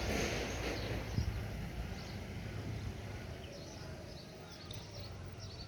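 Birds chirping in short, high calls, several a second from about two seconds in, over a steady low outdoor rumble; a brief rush of noise at the start.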